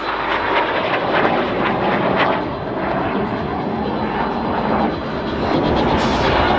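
Jet noise from BAE Hawk Mk65 jet trainers flying a display, their Rolls-Royce Turbomeca Adour turbofans giving a steady rushing sound that grows a little louder near the end.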